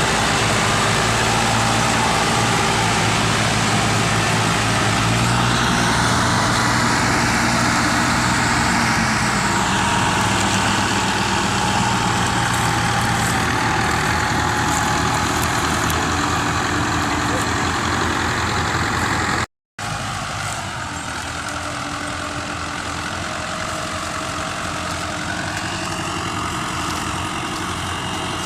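Diesel tractor engine running steadily under load. The sound breaks off for a moment about two-thirds of the way through and then carries on a little quieter.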